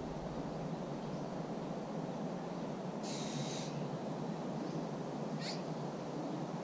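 A bird giving a short buzzy call that repeats about every four seconds, with a brief thin chirp just before the second call, over a steady low rushing background.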